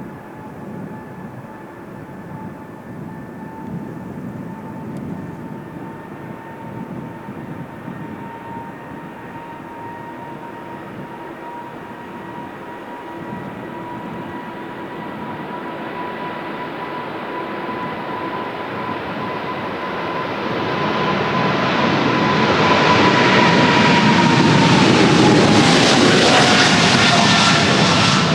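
Boeing 777's GE90 turbofan engines at takeoff power, a steady whine over a rushing roar that grows louder as the jet approaches. In the last few seconds the whine drops in pitch as the aircraft passes.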